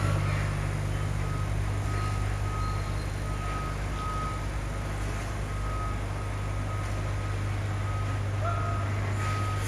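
Garbage truck's reversing alarm sounding a repeated beep over the steady drone of its diesel engine as it backs up.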